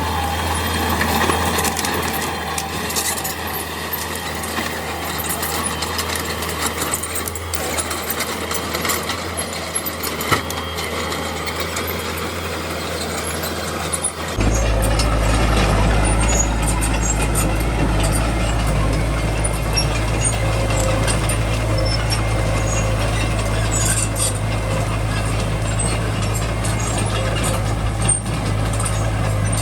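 Small bulldozer's diesel engine running steadily, with scattered clanks and cracks over it. About halfway through the sound changes abruptly to a louder, deeper engine drone.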